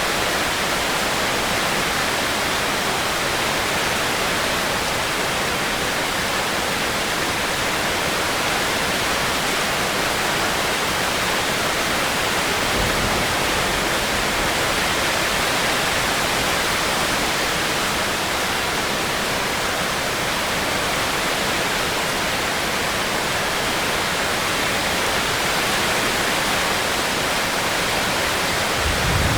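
Steady heavy rain falling, an even hiss of rainfall with a brief low rumble about thirteen seconds in.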